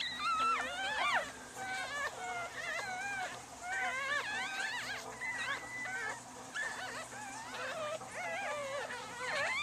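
Several newborn puppies squealing and whining together, high wavering cries overlapping with no break, in distress at being away from their mother.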